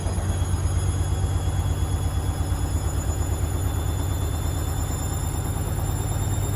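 Hoover Rapid 44 washing machine running: a steady low motor hum with high, steady whining tones above it and a fast, even pulsing in the level.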